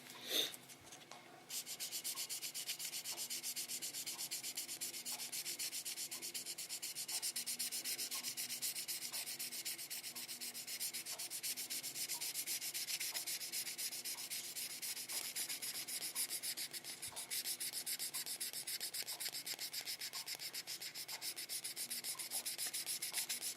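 Wet sanding with fine 3200-grit sandpaper on a scale-model car body: quick, even back-and-forth rubbing strokes that start about a second and a half in and keep a steady pace.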